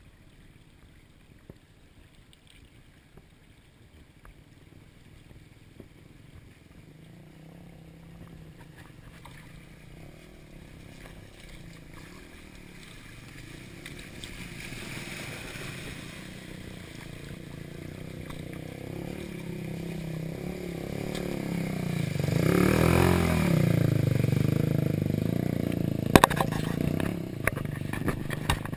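Dirt bike engine growing steadily louder as it approaches, loudest as it passes about 23 seconds in, its pitch rising and falling, followed by a few sharp knocks near the end.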